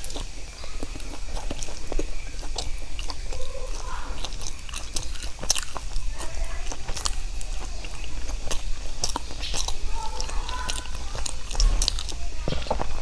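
Close-miked biting and chewing of a soft filled pastry, with frequent sharp, wet mouth clicks and smacks.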